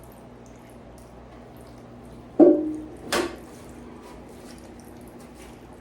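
Two sudden metallic clanks less than a second apart, the first ringing briefly, heard over a steady low hum and faint scattered ticks.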